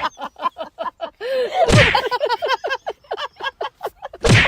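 Three loud, sharp whacks about two seconds apart, with rapid, chattering high-pitched syllables running between them.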